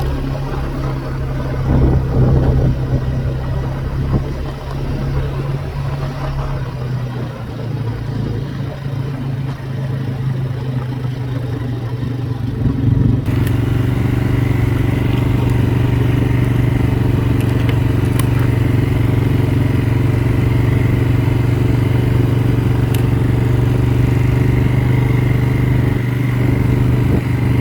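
ATV engine running while riding, its pitch and level shifting unevenly. About halfway through, the sound changes abruptly to the engine running steadily at idle.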